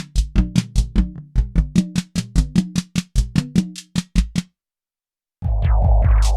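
Nord Drum 3P synthesized drum kit playing a simple rhythm pattern of about four to five hits a second, with tuned low drum tones. It stops about four and a half seconds in and falls silent for about a second. Then a different preset kit starts the pattern with a much deeper bass and a rushing noisy layer.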